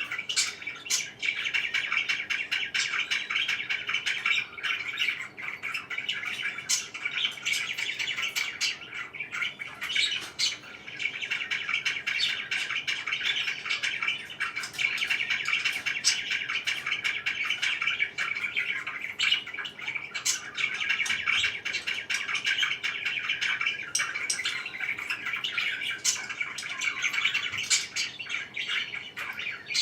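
Pet parakeets chirping in a dense, unbroken stream of chirps, with short sharp notes throughout.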